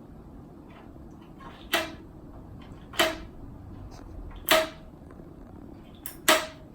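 A single string plucked four times, each a short twang on about the same note that dies away quickly, with a fainter pluck just before the last one.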